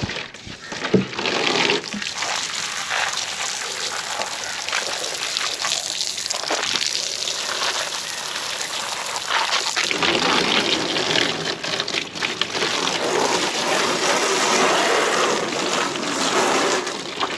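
Running water rushing steadily, growing louder about ten seconds in.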